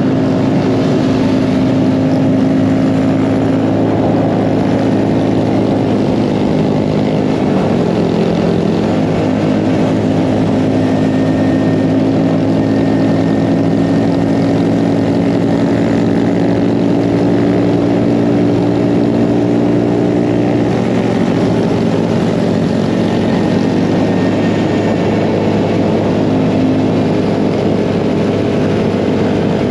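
Mini bike engine running at a steady cruising speed, a constant loud drone whose pitch shifts slightly about a quarter of the way in and again about two-thirds through.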